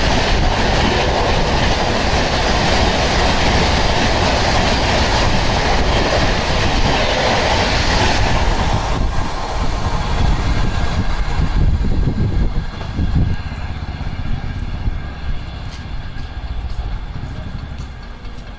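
Express passenger train running through a station at high speed, its wheels rushing and clattering on the rails. The noise is loud for the first half and drops off about nine seconds in. It then fades as the last coaches pass and the train moves away.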